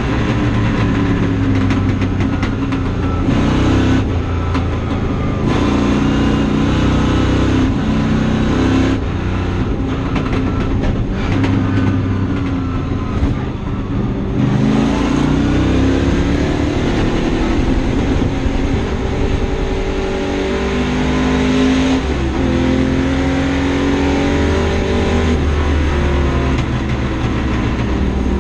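1959 Ford Thunderbird's V8 race engine at racing speed, heard from inside the car's cabin. Its note climbs under throttle, breaks at each gear change and climbs again, dipping briefly when the throttle is lifted about thirteen seconds in.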